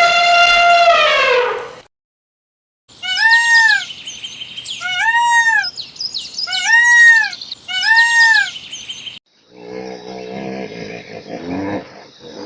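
A sequence of different animal calls, one after another. First comes a long held call that falls in pitch at its end, then four arched calls about a second and a half apart, then a lower, rougher call.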